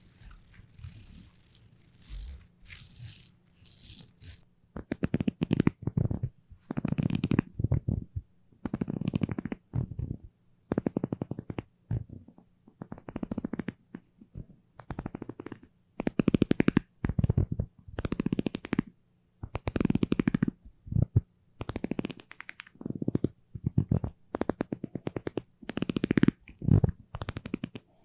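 Something sticky being pressed and pulled apart over and over. Each pull is a rapid crackling peel lasting half a second to a second and a half, with short pauses between them. The first few seconds hold a lighter rattling hiss instead.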